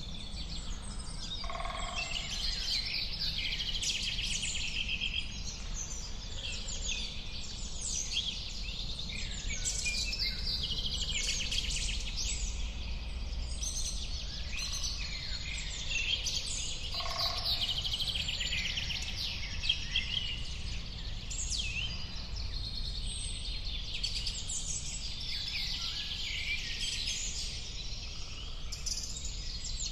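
Many songbirds chirping, trilling and singing over one another, with a lower two-note call heard twice, over a steady low rumble.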